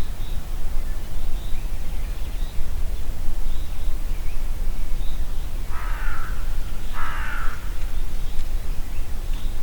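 Two harsh crow caws, the first about six seconds in and the second a second later, over a steady low wind rumble. Faint short high bird chirps recur throughout.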